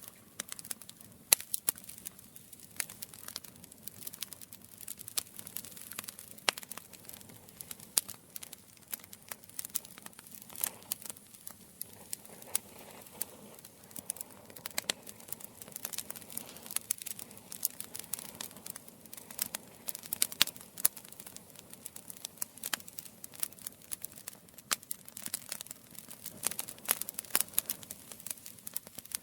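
Campfire crackling: wood burning with many sharp, irregular pops and snaps over a soft low hiss.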